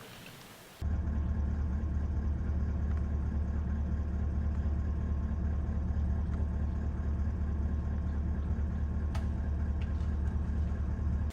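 Truck engine running with a steady low drone, beginning suddenly about a second in.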